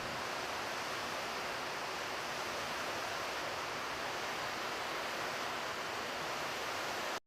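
Steady, even rushing noise, like wind or running water, that cuts off abruptly near the end.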